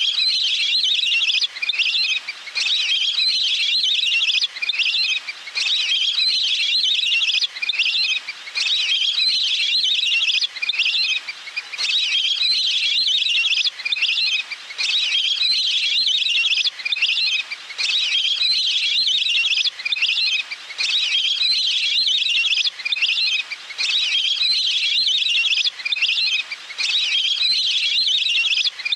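Recorded waterbird call played as a decoy lure: rapid high-pitched trilling phrases repeated over and over, each lasting about a second and a half with a brief gap between.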